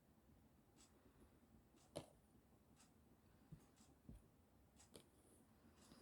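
Faint knife taps on a cutting board while tomatoes are sliced small: short, separate clicks about once a second, the clearest about two seconds in.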